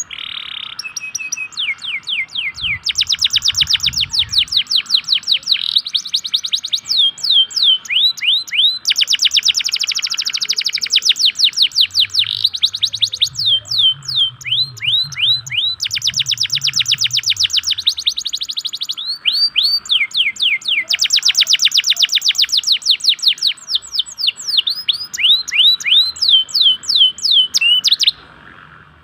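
Domestic canary (local Indonesian type) singing loud, fast trills: phrases of rapidly repeated notes that each sweep down in pitch, with short breaks between phrases. This is lure song, played to set other canaries singing.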